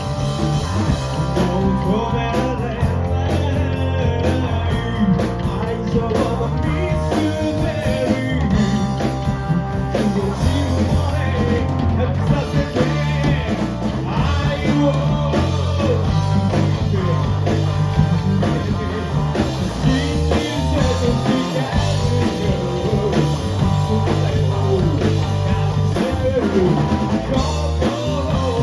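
Live rock band playing a song: electric guitar, bass and drums, with a singer.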